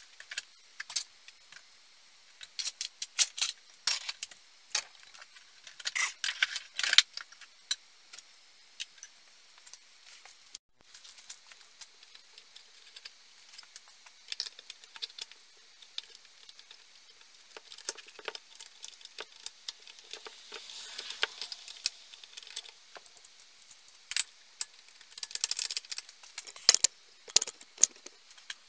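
Small metal parts and hand tools clinking, tapping and rattling as they are handled, in irregular bursts of sharp clicks with brief pauses between them.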